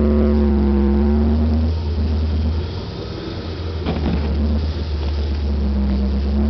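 Car engine running steadily at low revs while towing sledders on ropes. The engine eases off in the middle and then picks up again, with a single sharp knock about four seconds in.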